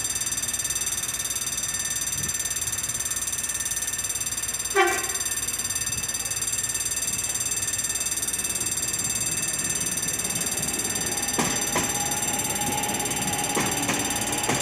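Sarmiento line electric commuter train approaching and crossing a level crossing while the crossing's warning signal sounds steadily. A short horn blast comes about a third of the way in. Near the end the train passes with a rising rumble and wheels clicking over the rail joints.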